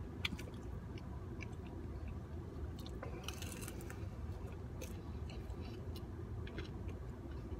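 Close-up chewing and biting of pizza and nachos, with small wet clicks and a short crunch about three seconds in, over a steady low hum.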